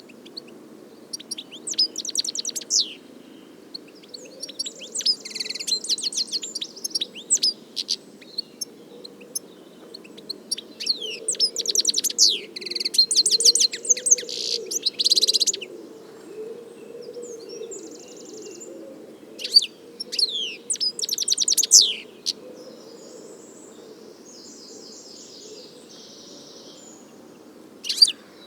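European goldfinch singing: phrases of fast, liquid twittering mixed with buzzy and nasal notes, broken by short pauses, over a steady low background hum.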